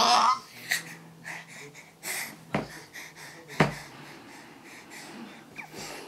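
A baby making breathy, wheezy noises and sniffs just after a burst of babbling, with two sharp knocks about a second apart in the middle.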